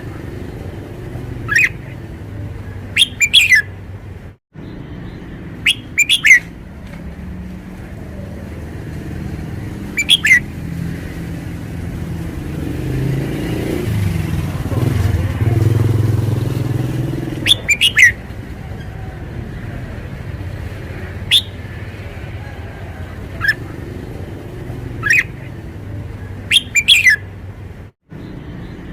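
Red-whiskered bulbul singing short, sharp whistled phrases, one every few seconds, over a steady low rumble that swells for a few seconds midway.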